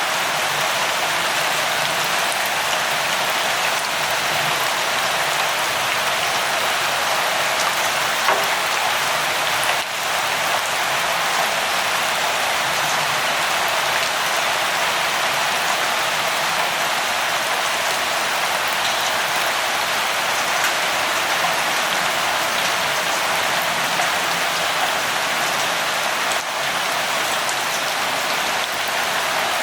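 Steady rainfall, a continuous even hiss with faint scattered drop patters.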